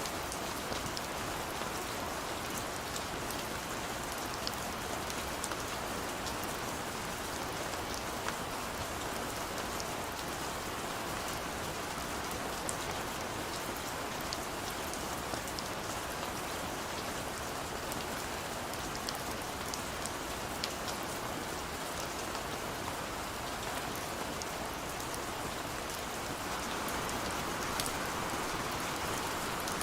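Steady rain falling, with many small drops ticking sharply throughout and a slight swell near the end.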